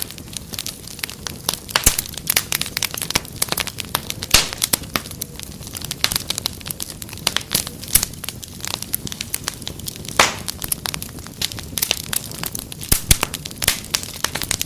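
Wood fire crackling: frequent irregular sharp pops and snaps over a low steady rumble of flames.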